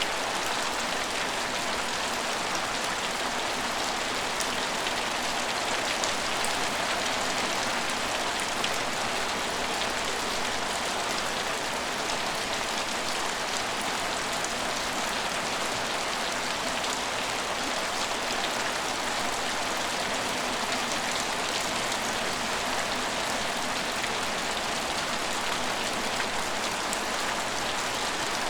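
Steady rain falling on hard surfaces, an even hiss with scattered individual drops ticking.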